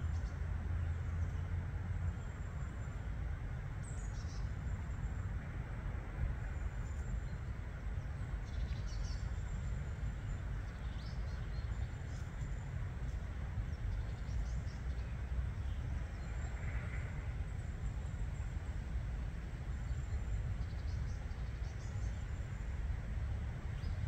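Faint, high bird chirps every few seconds over a steady low rumble.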